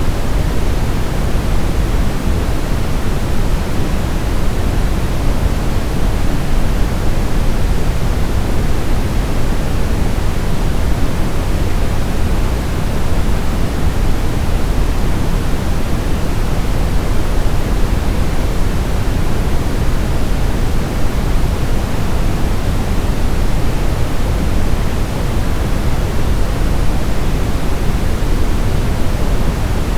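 Steady, unbroken sleep-aid white noise for soothing a baby, deepest in the low end and thinning toward the top, with no rhythm or events.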